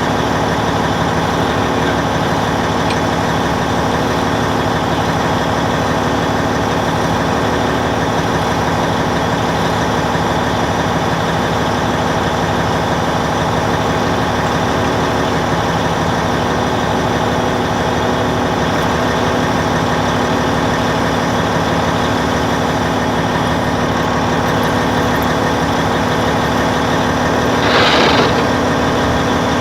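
Caterpillar D10N bulldozer's diesel engine running at a steady speed. A short burst of noise near the end.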